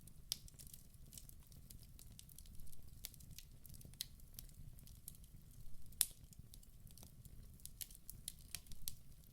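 Wood fire burning in a fireplace: irregular sharp crackles and pops over a low, steady rumble of the flames, with one louder pop about two-thirds of the way through.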